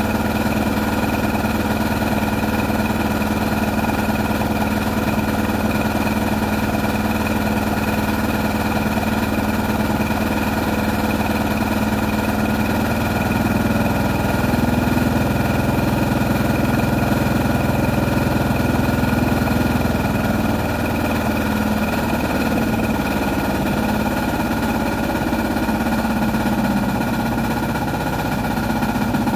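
A small motor running steadily with a humming drone; around the middle its pitch and loudness rise a little for several seconds, then settle back.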